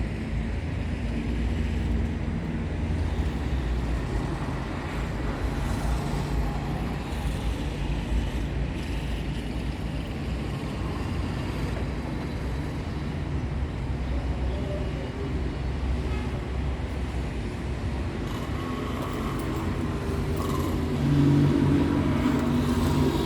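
Steady low rumble of road traffic, with a louder vehicle engine passing near the end.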